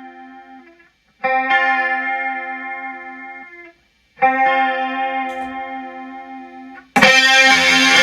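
Electric guitar with a clean tone playing chords that are struck and left to ring out, fading over about three seconds each. Near the end it switches to a loud, distorted chord.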